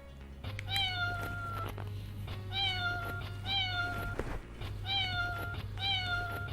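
A motorcycle proximity alarm going off: a loud, meow-like call repeated five times in an even loop, each call under a second long. A steady low hum runs underneath.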